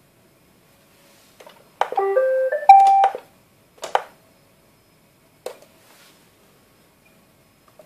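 Roomba 563 robot vacuum playing its short electronic tune, a quick run of stepped beeping notes going up and down, followed by a few sharp clicks.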